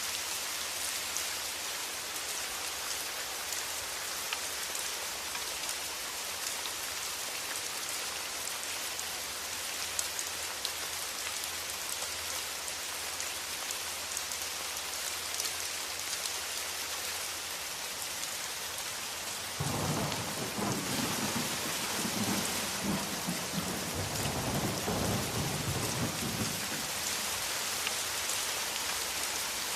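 Steady heavy rain, with a roll of thunder that breaks in suddenly about two-thirds of the way through, rumbles low for several seconds and then fades back under the rain.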